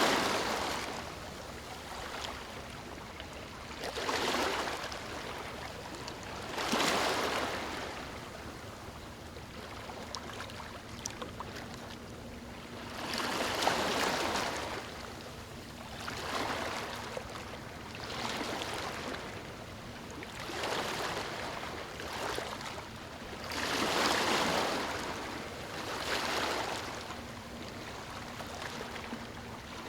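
Small waves lapping on a sandy beach, with a gentle wash of water that swells and fades every two to three seconds.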